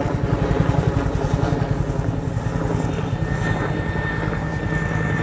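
Military helicopter flying low overhead, its rotor blades giving a loud, rapid, steady thudding beat.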